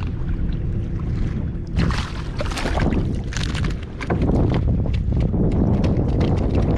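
Wind rumbling on the microphone over water lapping and splashing against a fishing kayak, with many short splashy sounds that grow busier about halfway through.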